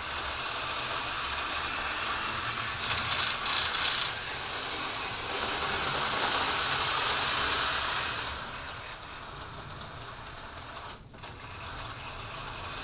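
HO-scale slot cars running on plastic track: a high whirring and rattling of small electric motors and gears that swells as cars pass close about three seconds in and again from about six to eight seconds in, then falls back.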